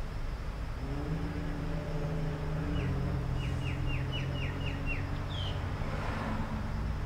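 A steady low engine-like hum, with a bird giving a quick run of about seven short falling chirps partway through.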